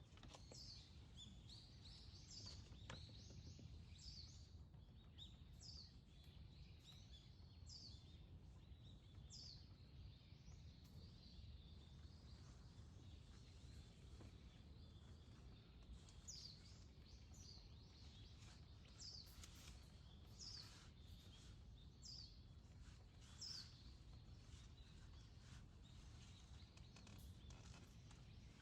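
A bird repeats a short, high, falling call note about once every second or two, in two runs with a gap between them, over a faint low outdoor rumble.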